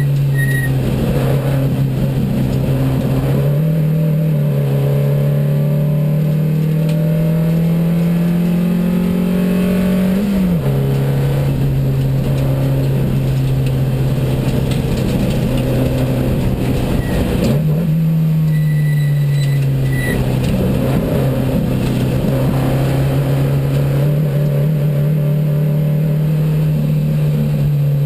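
Racing Porsche 914's 2270 cc flat-four engine running hard on track, heard loud from inside the cockpit. Its note climbs slowly for several seconds, drops sharply about ten seconds in, then jumps up again a little past halfway and settles back lower.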